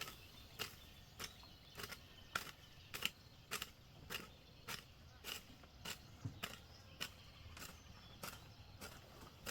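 Faint, steady strokes of a hand tool chopping at weeds, about one and a half strikes a second.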